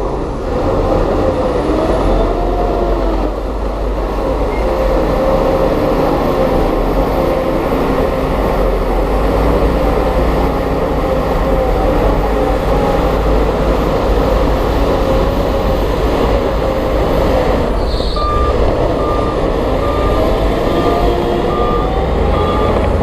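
Diesel engine of heavy earthmoving equipment running steadily under load. From a little past the middle, a reversing alarm beeps repeatedly in short, evenly spaced beeps.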